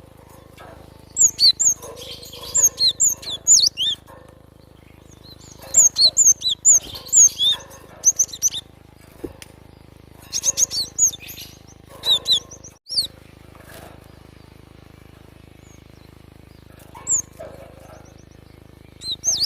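Cinereous tit (glatik watu) calling: bursts of quick, high, sweeping chirps in clusters of a few seconds, with pauses between, over a faint steady low hum.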